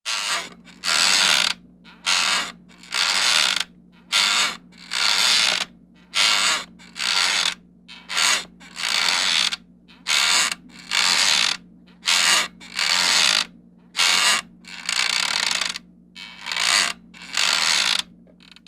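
A horror sound effect of a mechanism worked over and over: about sixteen loud, noisy strokes, roughly one a second and each under a second long, over a steady low hum.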